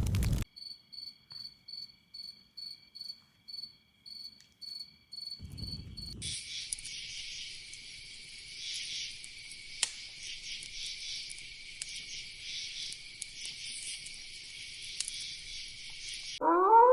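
Insects at night: a cricket chirping in even high pulses, about two and a half a second. After a cut, a dense, steady chorus of insects takes over. A loud pitched humming tone cuts in near the end.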